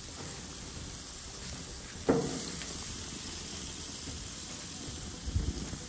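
Jerk chicken sizzling as it cooks, a steady hiss. A sharp knock rings out about two seconds in, and a dull thump comes near the end.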